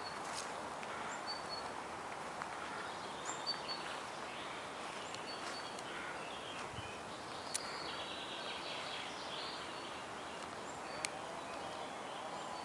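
Outdoor ambience with short, high bird chirps repeated every second or two over a steady hiss, and a couple of sharp clicks.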